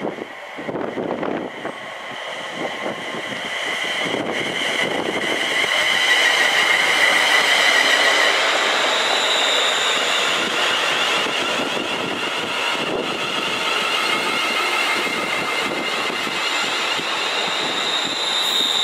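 ScotRail Class 380 electric multiple unit running past on the rails, with wheel and rail noise building up to its loudest about six to eight seconds in as the carriages go by. High steady singing tones ride over the rumble.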